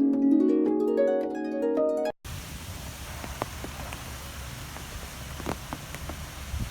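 Gentle plucked-string music that cuts off abruptly about two seconds in. It is followed by a steady rushing wind ambience with a low rumble and scattered drops.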